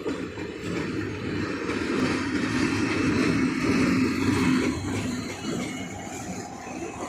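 A train passing close by at speed: a rushing rumble that builds to its loudest in the middle and then fades as it goes past.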